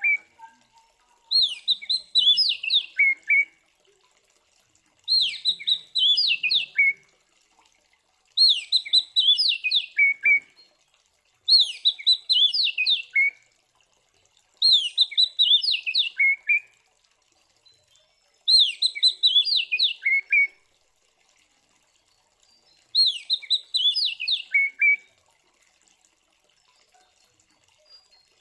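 Oriental magpie-robin (kacer) singing, the same short phrase of quick notes sweeping downward, each about two seconds long, repeated seven times with brief pauses between.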